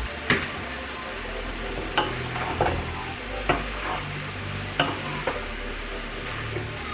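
Zucchini, yellow squash, tomatoes and pasta sizzling in a pan while being stirred, the utensil knocking against the pan about six times.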